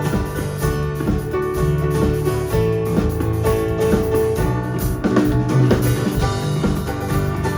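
A live band playing: guitar over a drum kit, with steady beats throughout.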